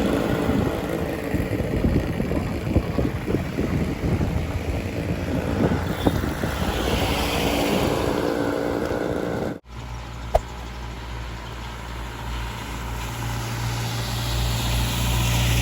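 Wind buffeting the microphone with road noise during a bike ride, a fluttering rumble. About ten seconds in it cuts off abruptly and gives way to a steady low hum, with a single click just after.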